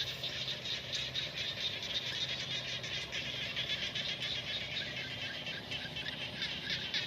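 A chorus of small frogs calling from a flooded rice paddy: many rapid, overlapping pulsed calls that run on without a break, over a low steady hum.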